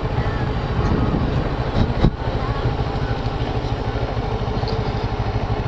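Motorcycle engine running steadily at low speed under a rushing haze, with one sharp knock about two seconds in.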